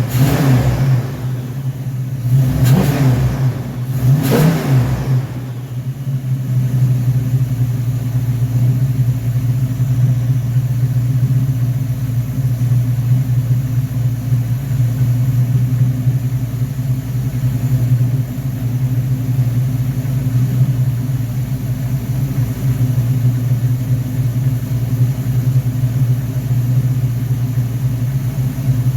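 Car engine running on a freshly rebuilt Rochester Quadrajet four-barrel carburetor, blipped up in revs three times in the first few seconds, then idling steadily.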